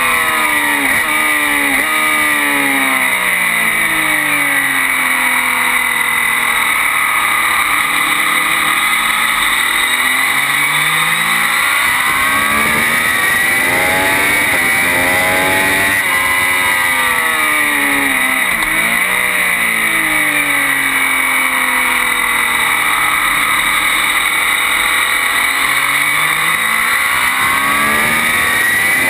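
Triumph Daytona 675 inline-three engine run hard on track, its pitch climbing through each gear and dropping at the changes, with downshifts into corners, over steady wind and road noise.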